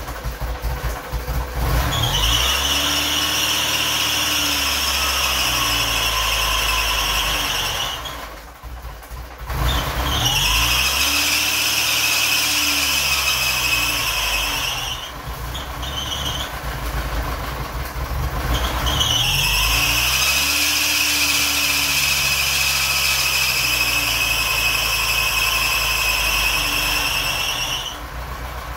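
1983 Porsche 944's four-cylinder engine running rough, with a loud, high-pitched squeal of steady pitch that comes in three long stretches of several seconds each. The sound dips briefly about eight seconds in. The owner puts the rough running down to the unplugged brake booster vacuum line.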